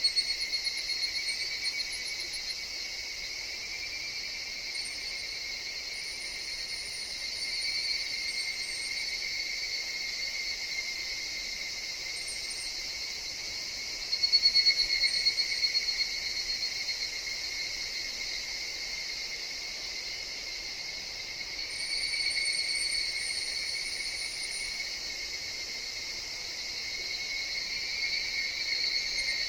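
Higurashi (evening cicadas, Tanna japonensis) calling in a steady forest chorus, their calls swelling and fading every several seconds, with faint high chirps from other insects.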